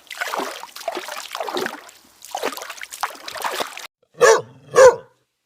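Irregular splashing, water-like noise, then two short, sharp dog-like barks near the end.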